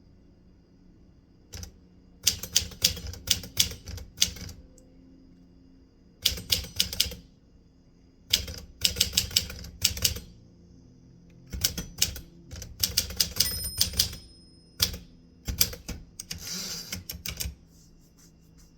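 Typewriter keys being struck in quick runs of clicks, five runs with short pauses between them, as words are typed. Near the end there is a longer rasping sound among the keystrokes.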